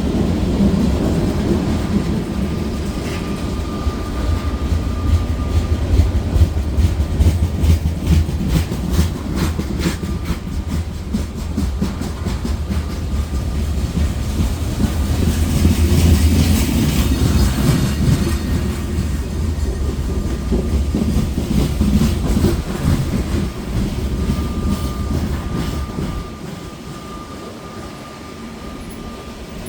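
Freight cars of a long grain train rolling slowly past, wheels rumbling and clicking over rail joints. The sound eases off near the end.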